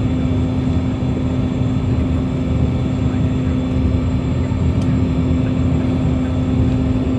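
Toppy 2 jetfoil high-speed ferry under way: a loud, steady drone with a strong even hum over a dense low rumble, unchanging throughout.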